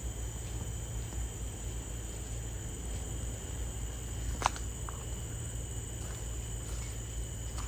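Steady high-pitched chirring of forest insects in a tropical rainforest, two unbroken tones over a low rumble. A single sharp click about four and a half seconds in.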